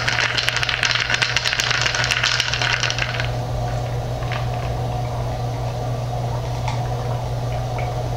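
Close-miked crunching as crispy barbecue chicken wings are chewed, a dense run of crackly crunches that stops about three seconds in. After that come only a few faint clicks and swallows from drinking out of a cup, over a steady low electrical hum.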